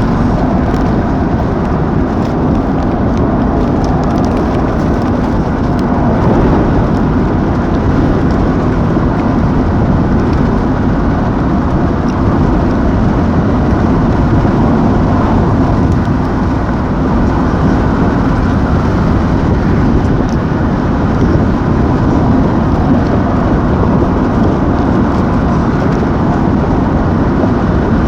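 Strong wind blowing hard against the microphone: a loud, steady rushing noise, heaviest in the low end, with no letup.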